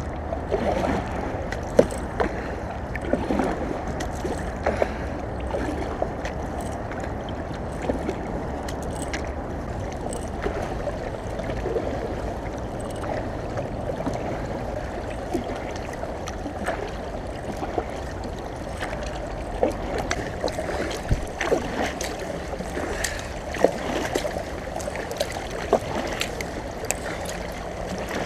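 Water sloshing and gurgling around the hull of a small paddled boat on a river, with scattered small splashes and knocks and a steady low rumble of wind on the microphone.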